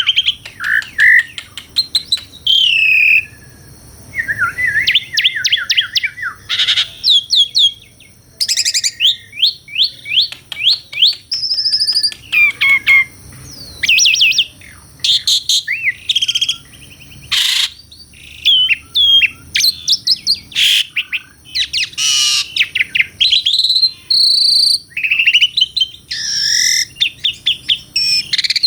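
Asian pied starling (jalak suren) singing loudly and almost without pause: a varied medley of quick runs of falling notes, clear whistles and a few harsh, scratchy notes.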